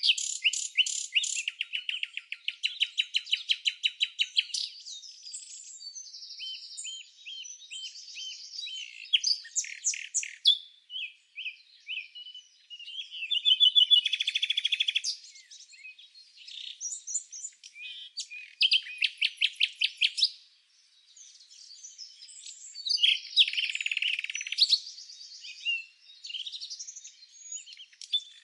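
Songbirds singing: fast trills of rapidly repeated notes alternate with assorted chirps and short whistles. Several birds overlap, all high-pitched.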